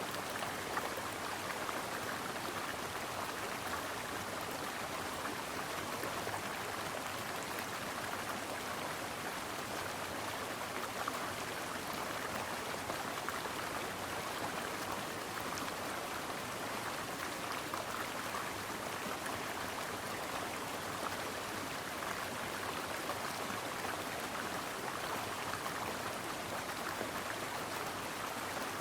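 Brook water flowing over stones: a steady, even babble with small splashes and drips.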